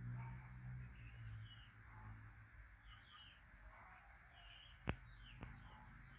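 Faint birds chirping in short, repeated calls in the background, with a sharp click just before five seconds in and a fainter click about half a second later.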